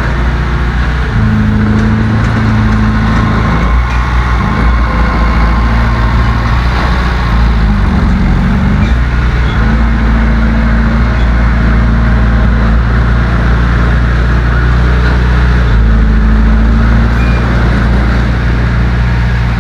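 Heavy diesel engine of earth-moving machinery running under changing load, its pitch dipping and climbing again about eight seconds in.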